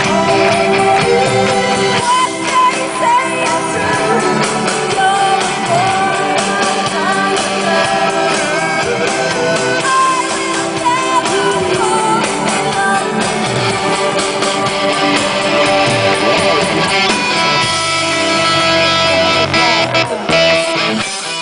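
Live electro-rock band playing loud through a festival sound system: singing over guitar, keyboards and drums.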